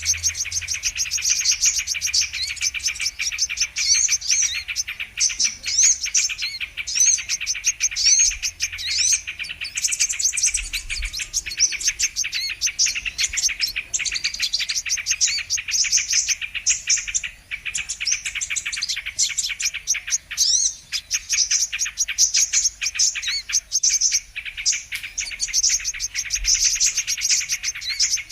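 Sunbirds (kolibri kelapa) twittering in a fast, unbroken stream of high, thin chirps and short gliding notes, many overlapping.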